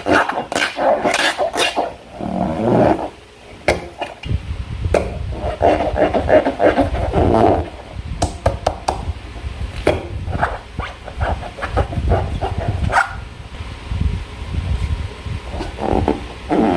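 Slime being squeezed and worked by hand, making irregular wet squelches with scattered sharp clicks and pops.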